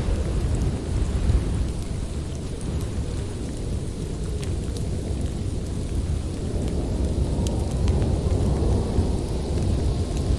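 Strong wind blowing as a steady deep rumble, mixed with the sharp crackles and pops of a wood fire in a fireplace scattered throughout.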